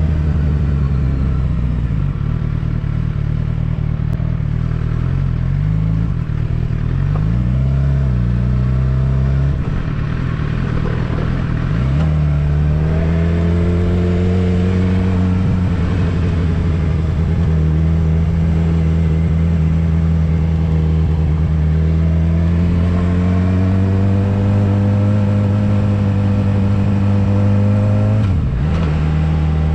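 Suzuki GSX-R750 inline-four motorcycle engine under way, its pitch going up and down with throttle in the first dozen seconds, then running at a steady pitch that slowly climbs before dropping sharply near the end as a gear is changed.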